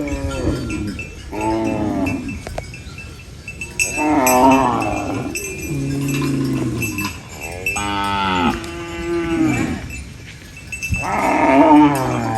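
Cows mooing, about six drawn-out calls one after another, some with a pitch that bends down.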